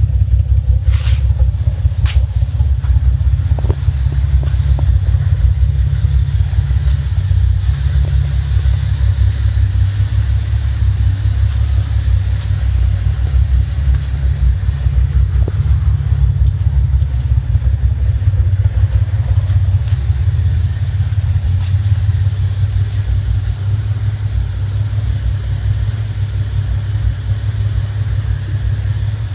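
Nissan Fairlady S30Z's swapped-in L28 2.8-litre straight-six idling steadily with a deep, pulsing rumble through its dual exhaust. The engine has only about 700 km on it and is still in break-in.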